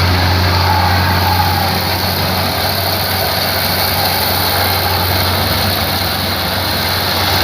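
Rice harvesting machine's engine running steadily with a deep, even hum.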